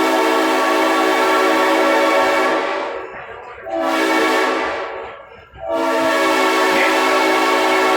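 Train horn sounding in three blasts: a long one, a shorter one, then a long one held on.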